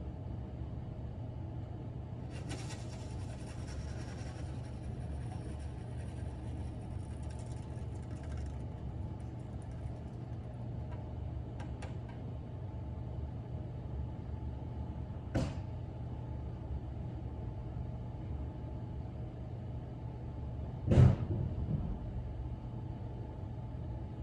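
Snow shovel scraping and knocking on a snow-covered driveway: a scrape lasting about six seconds starting a few seconds in, then two sharp knocks about five seconds apart, the second the loudest. A steady low rumble runs underneath.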